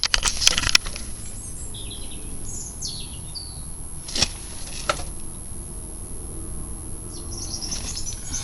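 Small birds chirping in short, scattered calls, with a cluster of sharp clicks at the start and two more about four to five seconds in.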